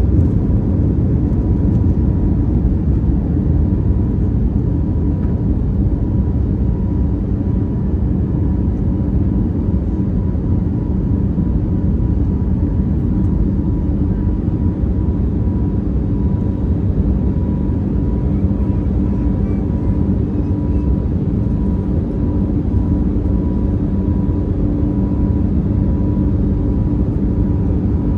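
Steady low rumble of the Airbus A321neo's Pratt & Whitney geared turbofan engines running, with a faint steady whine above it.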